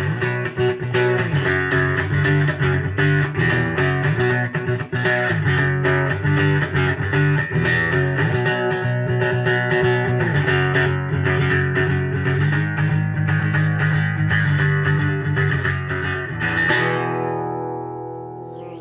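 Instrumental song passage: rhythmic strummed guitar over a bass line, which stops about seventeen seconds in, leaving the last chord ringing and fading.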